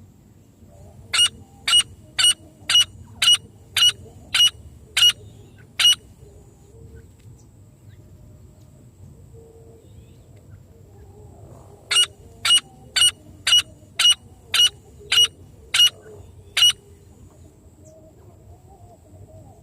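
Francolin (teetar) calling: two series of about nine short, sharp notes, about two a second, with a pause of several seconds between the series.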